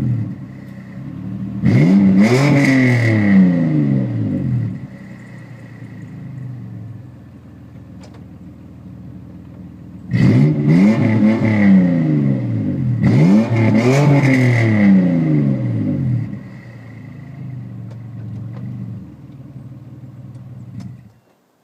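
Exhaust note of a 1999 Infiniti QX4's 3.3-litre V6 through a Y-pipe into a Flowmaster 40 original series muffler, with the stock muffler and resonator removed. The engine is blipped up and falls back to idle several times, in one group early and two more in the middle, idling between, and stops abruptly near the end.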